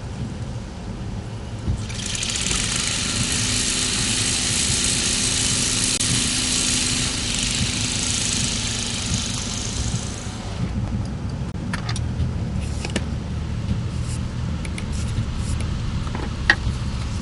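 Car engine running low and steady, heard from inside the car, with a loud even hiss for about eight seconds starting a couple of seconds in, then a few scattered clicks.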